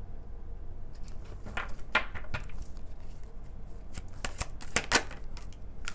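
Tarot cards being shuffled, with a series of crisp card snaps and flicks clustered in two bursts, over a low steady hum.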